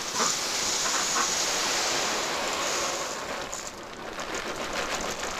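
Duck feed pellets pouring from a bag into a feeder: a steady rushing hiss that thins into scattered rattles and ticks after about three and a half seconds.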